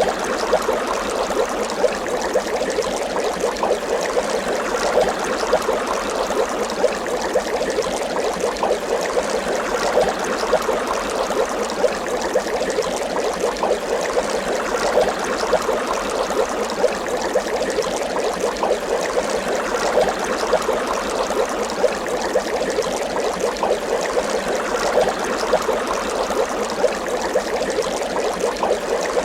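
Water bubbling continuously, a dense stream of small bubbles popping and gurgling without pause.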